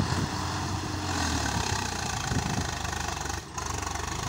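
Swaraj 963 FE tractor's three-cylinder diesel engine running steadily, with a brief dip in level about three and a half seconds in.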